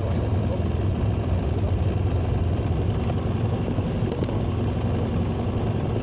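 A vehicle engine running at a steady pace under an even rush of noise, a constant low rumble that starts abruptly.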